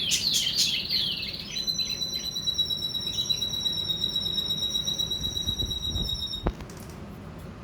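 Budgerigars chirping and warbling. After about a second and a half a steady, high-pitched whistling tone takes over, holds for about five seconds, then cuts off with a click.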